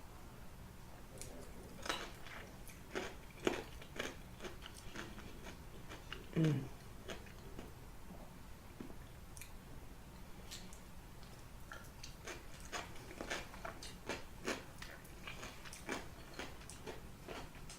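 Close-miked eating: irregular wet clicks and crunches of chewing and biting. About six seconds in comes one brief, louder low sound that falls in pitch.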